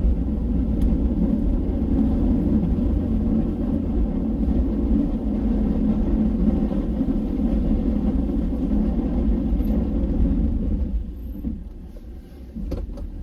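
Snowplow blade scraping snow off pavement over the running engine of the plowing vehicle, a steady loud rumbling noise that drops away about eleven seconds in as the scrape ends.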